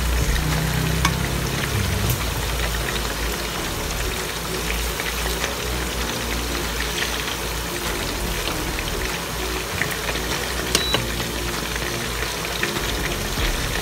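Chicken pieces deep-frying in a wok of hot oil: a steady sizzle and crackle, with a few sharp clicks of metal tongs against the pan as the pieces are turned. Soft background music underneath.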